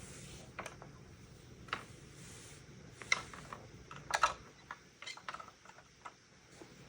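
Plastic Lego bricks being handled, with irregular sharp clicks and clacks that cluster in quick runs around the middle, over a faint rustle.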